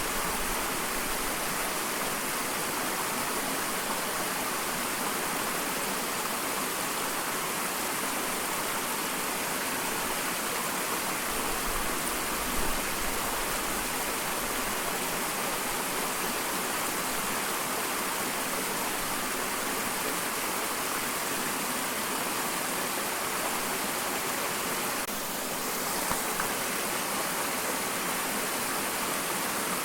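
Small waterfall: water falling and splashing in a steady, continuous rush with a bright hiss.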